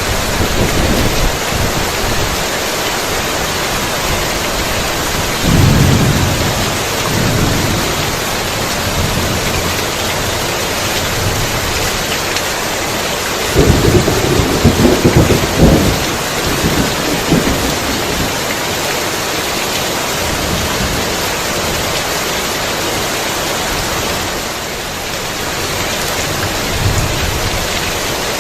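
Heavy rain falling steadily, with rumbles of thunder about six seconds in and again from around the middle for a couple of seconds.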